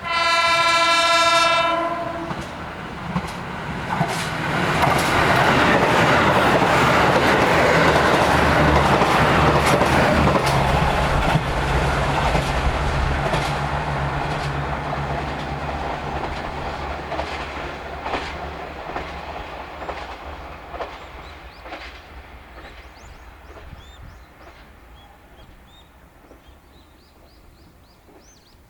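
KiHa 85 series diesel express train sounding its horn in one blast of about two seconds, then passing with its diesel engines running and its wheels clicking over rail joints, the sound dying away slowly. Birds chirp faintly near the end.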